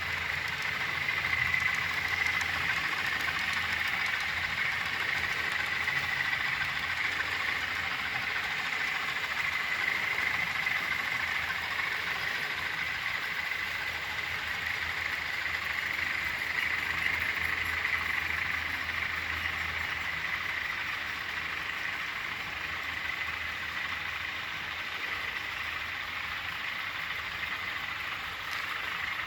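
Class 20 diesel locomotives' English Electric eight-cylinder engines running steadily, a low engine hum under a steady high whine, the whole sound easing slightly in the last third.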